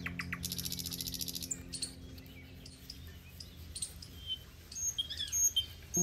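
Birds chirping outdoors in short whistled calls, with a fast high trill for about a second near the start. Background music tones fade out during the first two seconds.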